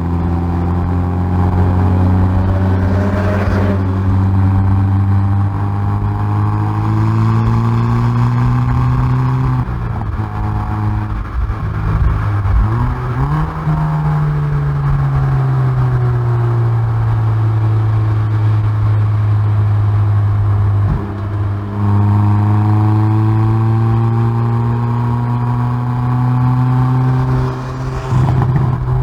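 Hyundai i30N Performance's turbocharged 2.0-litre four-cylinder heard through its exhaust at the rear bumper, running hard on track: the revs climb steadily and are cut by quick gear changes about ten seconds in, about twenty-one seconds in and near the end. Between the first two changes the revs dip and rise again, then hold at a slowly falling pitch.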